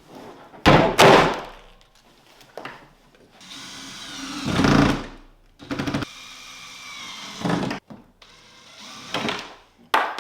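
Power drill driving screws in several short runs of a second or two each, its motor whining, during assembly of a kit.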